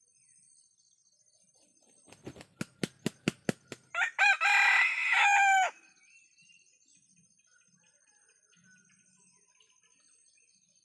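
Ayam kampung rooster beating its wings in a quickening run of about ten flaps, then crowing once, loudly, for about a second and a half.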